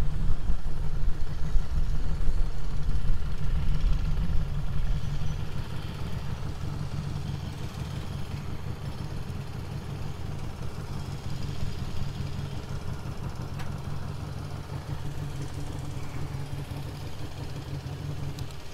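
Harley-Davidson Street 500's liquid-cooled V-twin engine running at low speed, easing off over the first few seconds and settling into a steady idle.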